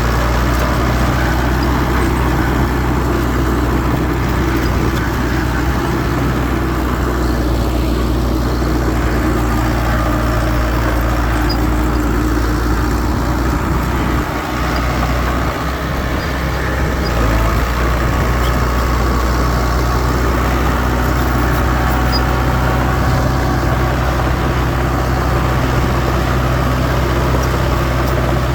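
Diesel engine of heavy earthmoving machinery running steadily: a deep, continuous drone.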